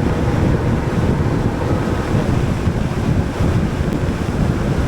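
Wind buffeting a helmet-mounted action camera's microphone on a moving motorcycle: a steady, loud low rush.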